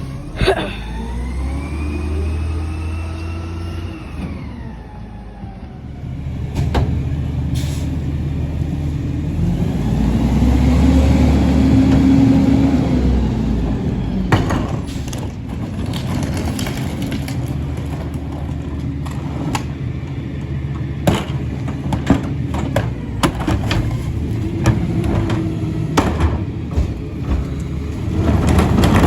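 Garbage truck at work: the engine runs under a whine that falls away after a sharp burst near the start, then swells up and back down in the middle. After that comes a series of scattered knocks and bangs.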